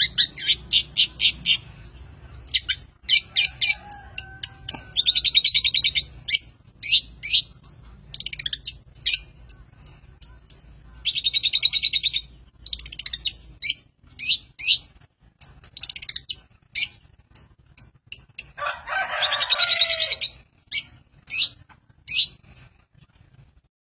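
A mimicking songbird singing a varied song of short, sharp chirps, broken by two rapid trills and, about three-quarters of the way through, a harsher rasping burst. The song stops shortly before the end.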